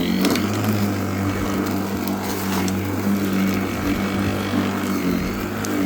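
Lawnmower running steadily with a constant low hum.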